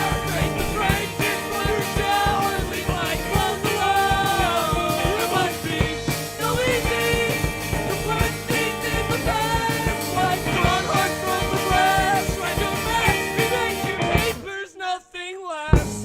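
Rock band music with drums and singing. Near the end the drums and bass drop out for about a second, leaving a wavering held note, before the band comes back in.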